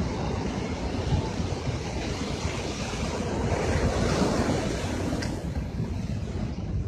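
Heavy ocean surf: big waves breaking and rushing in, one surge swelling loudest around the middle, with wind buffeting the microphone.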